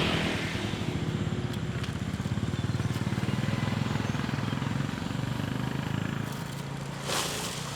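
Small motorcycle engine running with a steady, fast pulsing hum that eases off after about six seconds. A brief rustle comes near the end.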